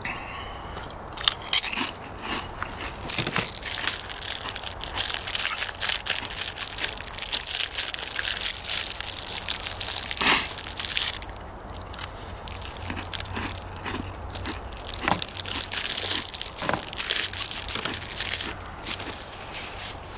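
A person chewing crunchy potato chips, with crisp crunching that comes and goes.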